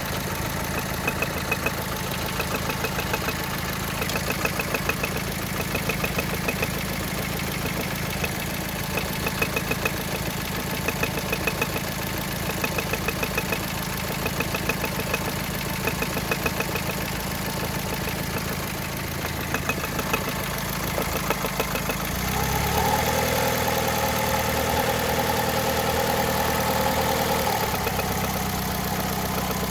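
Car engine idling with a light ticking that comes in short runs over the steady idle, a tick the owner fears may be connecting-rod bearing damage; it is heard only at idle. About three quarters of the way through, a higher steady hum joins the idle and the ticking is no longer heard.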